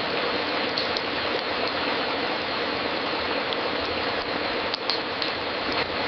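Wood fire crackling in a fireplace: a steady hiss with scattered sharp pops, several coming close together near the end.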